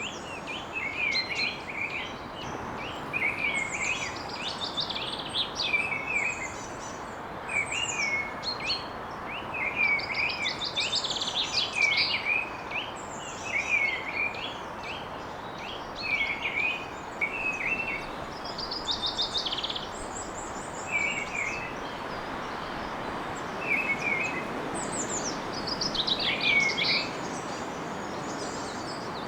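Several songbirds singing in woodland: short phrases repeated every second or so, with higher, faster trills from other birds over them.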